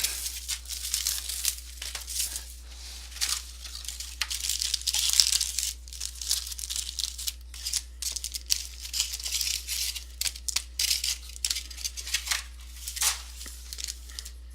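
Foil trading-card pack wrappers being torn open and crinkled by hand: a continuous run of irregular crackling tears.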